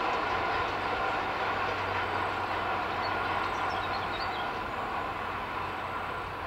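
Electric train running along the track: a steady rolling rumble of wheels on rails that slowly fades.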